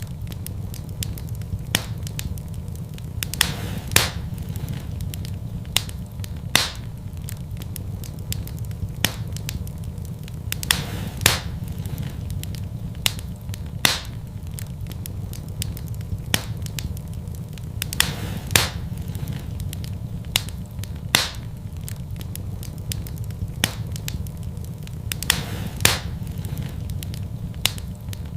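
Fire in a fireplace crackling, with irregular sharp pops every second or two over a steady low rumble.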